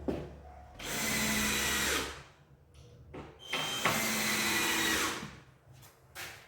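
12-volt lithium cordless drill/driver driving screws into MDF cabinet panels: two runs of about a second and a half each, the motor whine rising slightly as each screw goes in, with light knocks in between.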